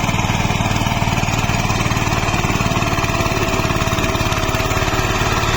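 Mini tractor's diesel engine running steadily, with a fast, even pulsing beat.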